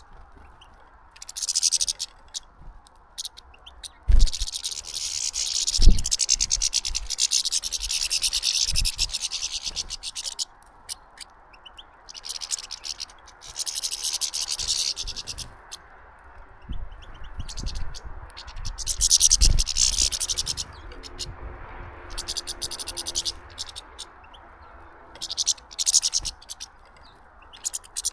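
Repeated bursts of dry scratching and rustling at a bird feeder, each lasting one to a few seconds, with a couple of dull thumps about four and six seconds in.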